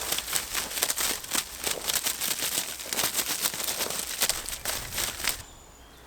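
Dry sticks and leaf litter crackling and snapping as a woodland debris shelter is pulled apart, in a quick irregular run of sharp cracks that stops abruptly about five seconds in.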